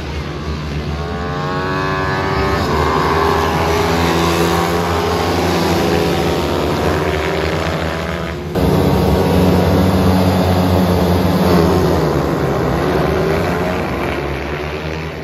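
Several small single-cylinder pitbike engines racing at high revs, their pitch rising and falling as they accelerate and brake. The sound changes abruptly about eight and a half seconds in and grows louder.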